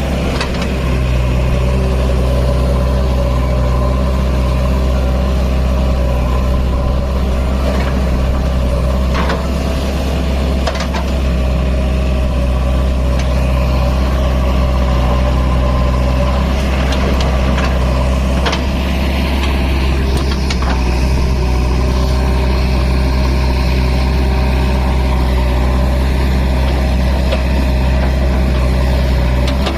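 Heavy diesel engine of a tractor or loader running at a steady speed, with a few short knocks through the middle.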